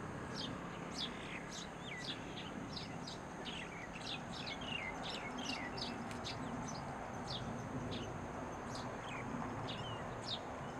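Birds chirping: many short, high, downward-sliding notes, several a second and sometimes overlapping, over a steady background noise.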